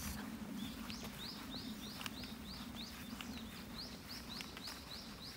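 A small bird calling one short, high note over and over, about three times a second, starting about a second in.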